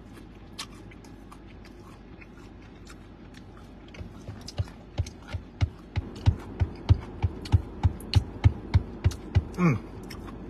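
Close-up chewing of a crispy fried chicken wing: faint mouth clicks at first, then from a little before halfway a steady run of chews at about three a second, each with a soft low thud and a wet click. Near the end a short vocal 'mmm' falls steeply in pitch.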